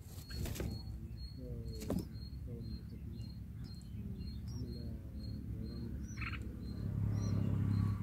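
Birds chirping: a short high chirp repeats about three times a second, with two sharp clicks about half a second and two seconds in.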